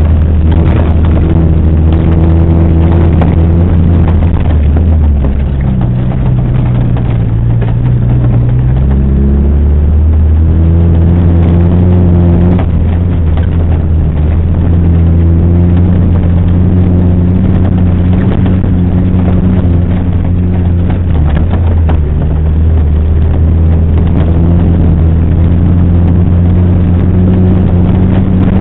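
Engine of an off-road 4x4 running steadily as it drives along a rough dirt track, its pitch dropping about five seconds in and climbing back around nine seconds, with light knocks and rattles from the bumps.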